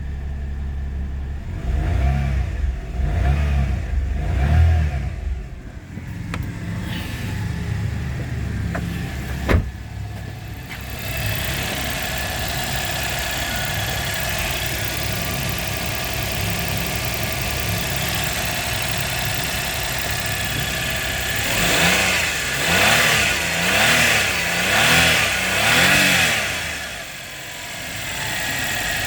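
Suzuki Kei's K6A 660 cc three-cylinder engine running for a check at idle and medium revs. There are a few rev rises early on and a sharp click about ten seconds in. After that it settles into a steady idle, then is revved up and let fall back four times near the end.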